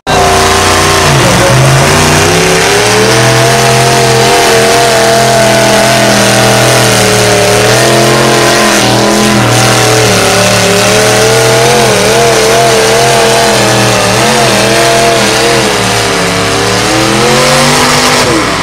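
A truck or tractor pulling engine running flat out through a pull. It is very loud and starts suddenly; its pitch dips about a second in, then climbs and holds high with small wavers.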